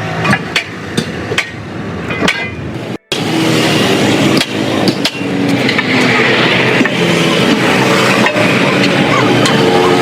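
Repeated hammer blows, sharp knocks several times a second at first, then more widely spaced over a louder, steady background noise.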